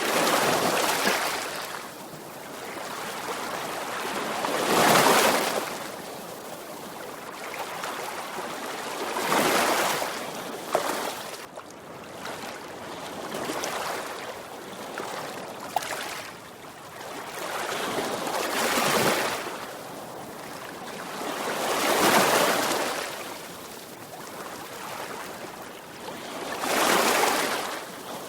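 Sea waves breaking and washing on the shore, the surf hiss swelling and ebbing every few seconds with a louder break now and then.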